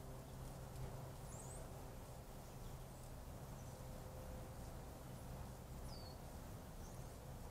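A few short, faint high chirps, a second or more apart, from a bird, over a steady low hum.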